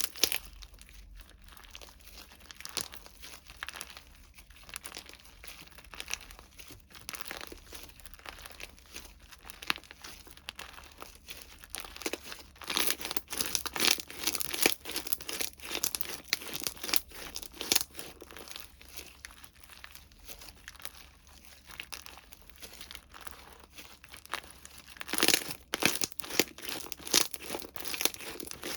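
Plastic packaging crinkling and tearing as a slime box is unboxed by hand: irregular crackling throughout, with a louder flurry near the end.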